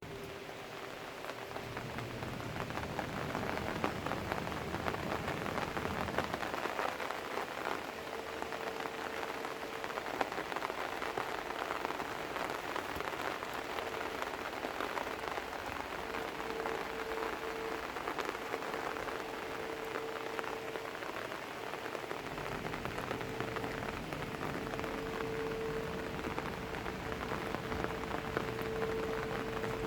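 Steady summer rain falling on surfaces, a continuous hiss dense with the pattering of individual drops. A faint steady hum comes and goes underneath it.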